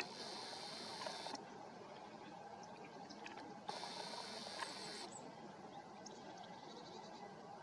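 Nikon P1000's built-in zoom motor whirring twice, each time for about a second and a half, over a faint steady hiss.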